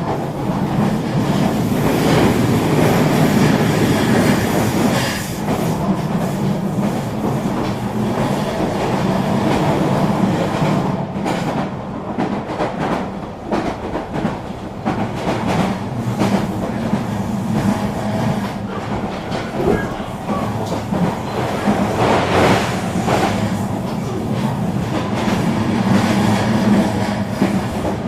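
Regional train running along the track: a steady rumble, with wheels clicking over rail joints now and then.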